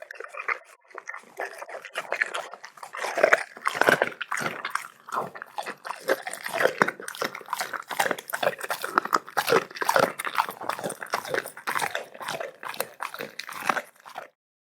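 A dog chewing and gnawing on a tough piece of steak, with irregular wet crunches and clicks of its teeth that cut off about 14 seconds in. The steak was not cooked soft, so the dog has to work hard at it.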